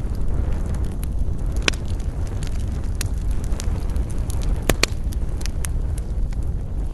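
Wood fire crackling in a fireplace: a steady low rumble of flames with scattered sharp pops, two of them in quick succession about two-thirds of the way through.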